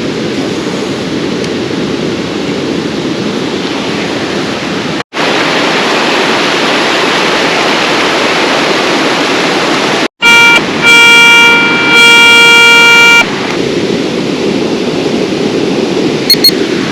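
Garrett Ace 250 metal detector sounding on a target: three steady buzzing beeps, a short one then two longer, the last about a second long. They are the loudest thing, over a steady rushing background noise.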